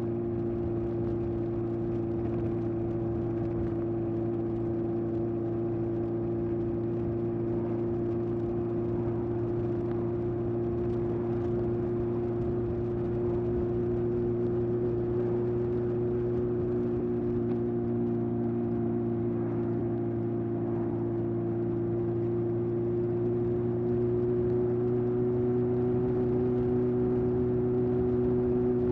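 1981 Honda CB750F's air-cooled inline-four engine through a period Yoshimura exhaust, cruising at a steady engine speed. Its pitch and level rise slightly near the end.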